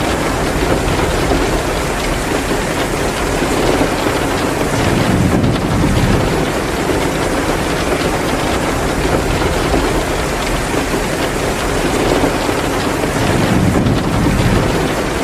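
Heavy, steady downpour of rain mixed with a wood fire crackling in a fireplace, with a low rumble swelling up twice, about five seconds in and near the end.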